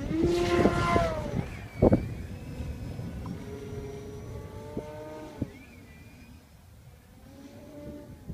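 Carbon-Z Cub SS radio-control plane's electric motor and propeller whining, loudest in the first second and falling in pitch, then fainter and wavering in pitch. Gusts of wind thump on the microphone.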